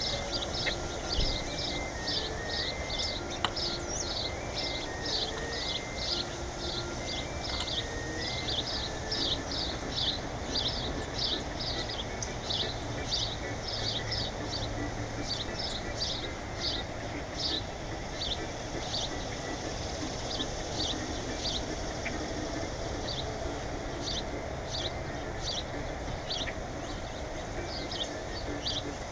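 Small birds chirping over and over: short downward-slurred chirps, about two a second, that thin out in the second half, over steady background noise.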